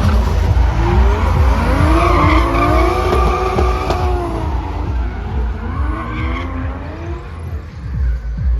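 Drift car engine revving up and down as the car slides, over the hiss and squeal of spinning, skidding tyres.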